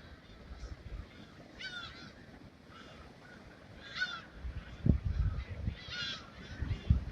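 Seagulls calling: three short squawking calls about two seconds apart, with a low rumbling noise coming in during the second half.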